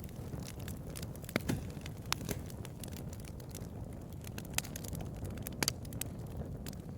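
Wood bonfire crackling: irregular sharp pops and snaps over a steady low rumble, with a few louder snaps about 1.5, 2 and 5.5 seconds in.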